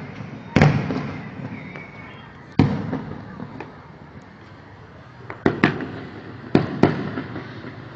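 Aerial fireworks bursting: separate loud bangs at irregular intervals, each trailing off in echo, with single big ones about half a second and two and a half seconds in and a quicker cluster of bangs between about five and seven seconds in.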